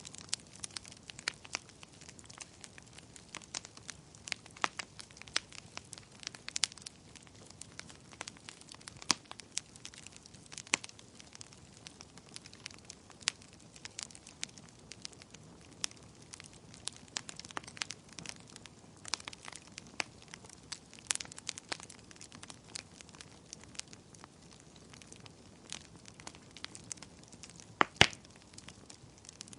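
Wood fire burning in a fireplace: burning logs crackling with irregular sharp pops and snaps over a faint low hiss, with one louder pop near the end.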